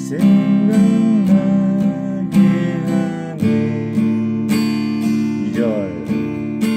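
Acoustic guitar strumming chords in a steady rhythm, working through a song's chord progression.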